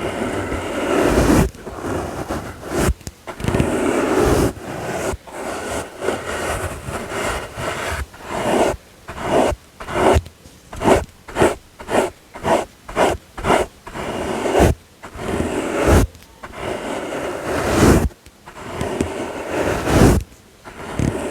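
Soft brush sweeps for ASMR, close-up: long rustling strokes, then a stretch of quick, separate strokes about two a second, then long sweeps again.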